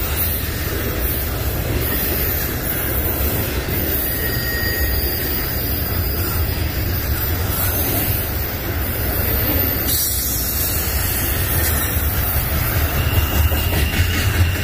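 Norfolk Southern freight train rolling past, a steady loud rumble of wheels on the rails, with a faint high wheel squeal setting in near the end.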